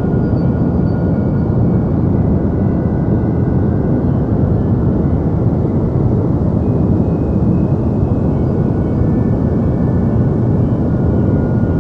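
Deep white noise for sleep: a steady, unbroken low-weighted hiss with most of its weight in the bass and little treble. A few faint thin high tones drift in and out.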